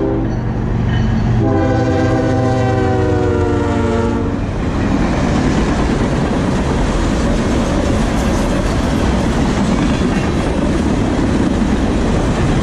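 Norfolk Southern freight train passing: the leading diesel locomotives sound their horn with a short note at the start, then one long blast of about three seconds from about a second and a half in, its pitch sagging slightly near the end. The locomotives and then the freight cars roll by with a steady loud rumble and rattling wheel clatter.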